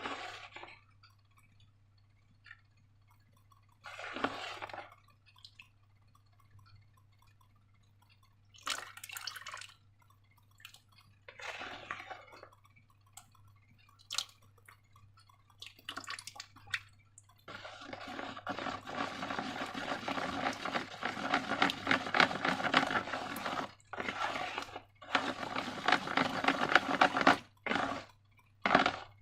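Wet slime squelching and dripping: a few separate short squishes, then from a little past halfway a continuous sticky crackling squelch.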